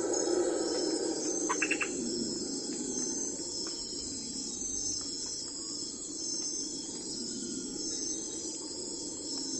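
Insects chirping in a high, pulsing trill over a steady low background rumble, with a quick run of about four short ticks about one and a half seconds in.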